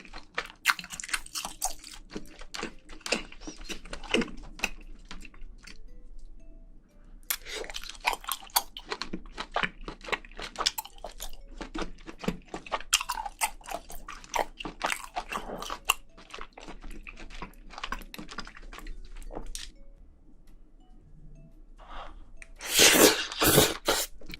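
Close-miked chewing of spicy braised seafood: steady wet mouth clicks, smacks and crunches. There is a louder, noisier stretch of eating about two seconds before the end.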